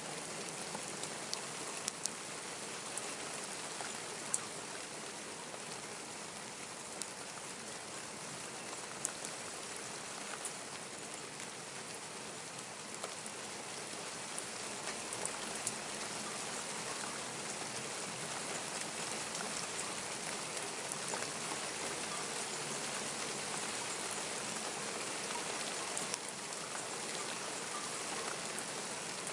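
Steady rain falling, with scattered sharp ticks of individual drops landing close by.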